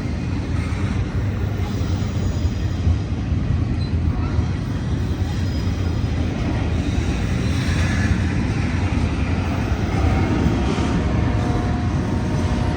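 Cars of a long Union Pacific double-stack intermodal freight train rolling past at speed: a steady, heavy rumble of steel wheels on rail, with faint high squeals coming and going.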